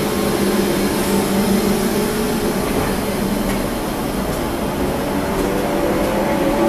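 Older electric commuter train pulling out of the station past the platform, with a steady running hum and rumble and a few light clicks from the wheels.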